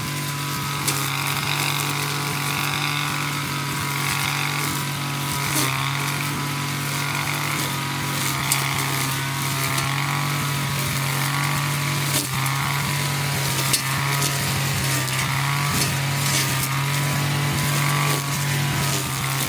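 Two-stroke 25 cc brush cutter engine running steadily at working speed while cutting grass with a three-tooth blade and nylon cord, with occasional sharp ticks as cut debris strikes the blade and guard.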